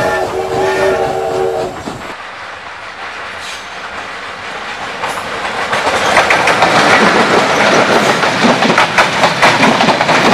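Diesel passenger train's air horn sounding a chord of several tones, cutting off about two seconds in. Then the wheels clatter over the rails, growing louder as the coaches pass close by.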